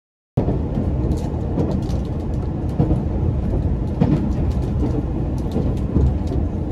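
Moving train heard from inside the carriage: a steady low rumble with scattered faint ticks and rattles, cutting in abruptly about half a second in.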